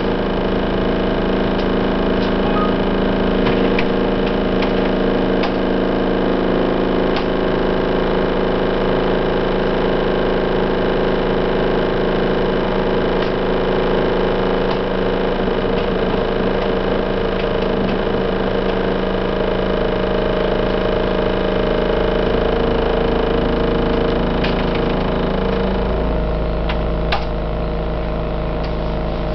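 Engines of heavy road-construction machinery running steadily, with a constant low rumble, heard from inside a building beside the roadwork. The sound changes near the end, and a single click follows shortly after.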